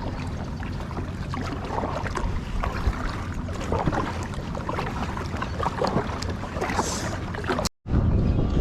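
Wind buffeting the microphone on a kayak, with small water splashes and knocks against the hull. The sound cuts out abruptly for a moment near the end, then the wind comes back stronger.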